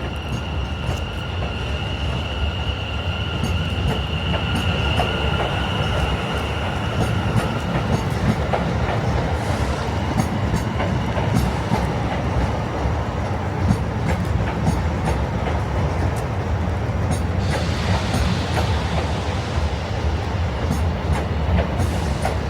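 Class 455 electric multiple unit running on the rails, with a steady rumble, clicks over the track and some wheel squeal. A steady high whine fades away about eight seconds in.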